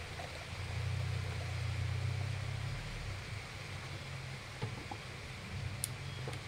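Steady rain hiss, with a low motor drone that swells about a second in and eases off near three seconds.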